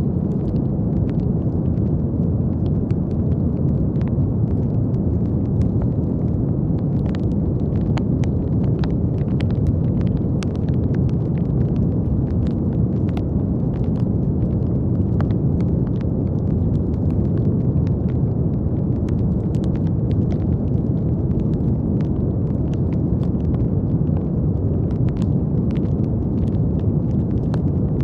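Steady brown noise: an unbroken, deep, low hiss with no change in level. Faint small crackling clicks are scattered through it at irregular moments.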